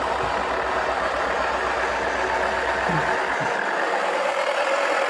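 Toy washing machine's small motor whirring steadily as its drum turns with a cricket ball inside. A low, evenly pulsing rumble underneath stops about three seconds in.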